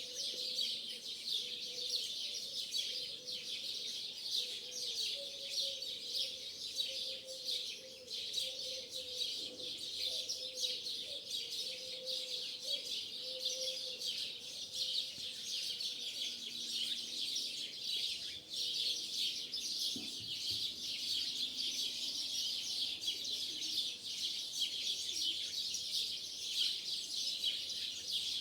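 A flock of starlings chattering and whistling continuously in a dense, unbroken chorus of many overlapping high calls.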